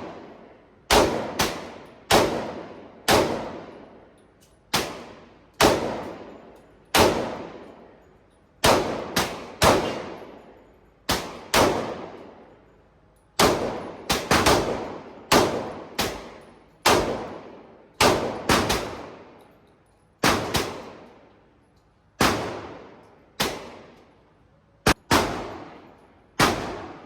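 Steady series of gunshots, about one a second with some quick doubles, each followed by a ringing echo off the hard walls of an indoor firing range.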